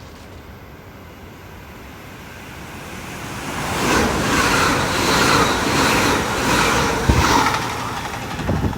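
Passenger train passing through the station: a rushing noise of wheels and air builds from about three seconds in, with a rhythmic clatter of wheels over the rail joints, and eases off near the end.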